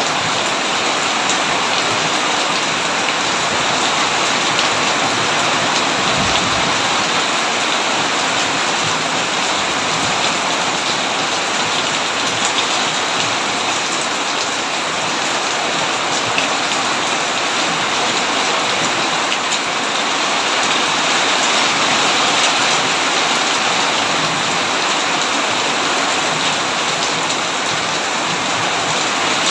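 Heavy rain pouring steadily on a tin roof, an even, unbroken hiss of drops.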